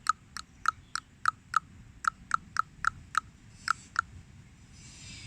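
A bird calling a quick series of short, sharp notes, about three a second, that stops about four seconds in; a faint hiss follows near the end.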